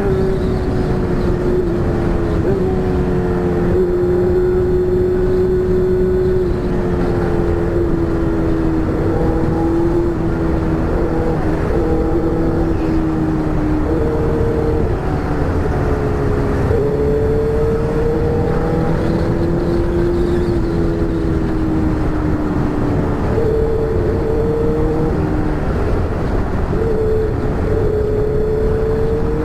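Honda Hornet's inline-four running through an aftermarket exhaust while riding, its note drifting up and down with the throttle and gear changes.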